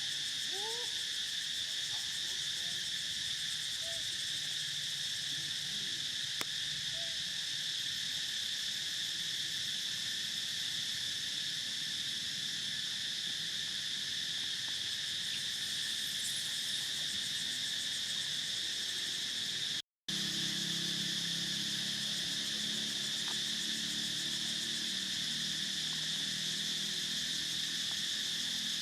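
A steady chorus of insects, a continuous shrill drone, with a few short faint chirps in the first seven seconds. The sound cuts out for a moment about twenty seconds in, and a low rumble joins it afterwards.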